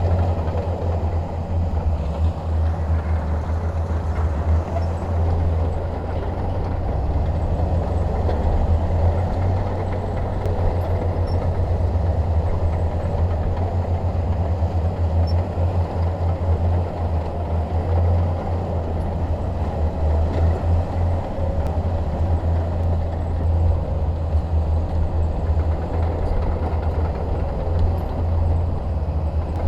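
Shantui DH17 bulldozer's diesel engine running steadily under load, with a deep, pulsing drone.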